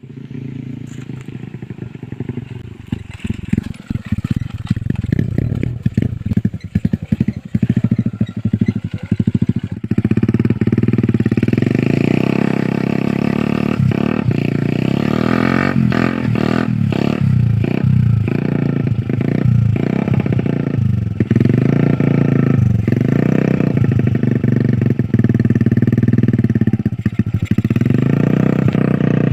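Yamaha Jupiter MX motorcycle's single-cylinder four-stroke engine, fitted with a PE28 carburettor and a non-standard exhaust, running loud and being revved. For about the first ten seconds it runs choppy and uneven; after that it holds a steady loud note that rises and falls with the throttle.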